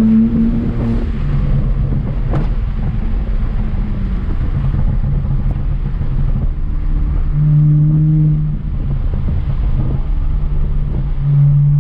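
BMW 335i's N54 twin-turbo straight-six running through a VRSF race exhaust (straight pipe) while driving: a steady low drone whose pitch shifts a few times.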